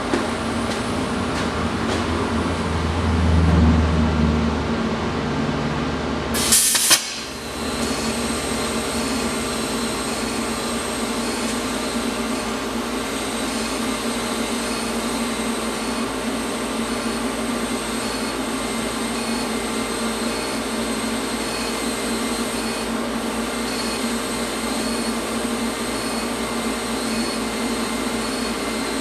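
Steady mechanical hum of a running shop machine, with a short, sharp louder burst about six and a half seconds in.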